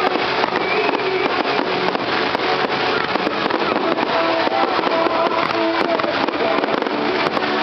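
Fireworks crackling, a dense run of many small pops in quick succession, with voices and music underneath.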